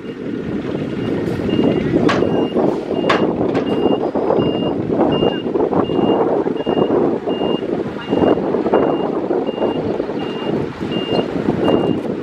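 Reversing alarm on a heavy earthmoving machine beeping steadily, about one and a half beeps a second, over the loud running of the machine's engine. Two sharp clanks come a couple of seconds in.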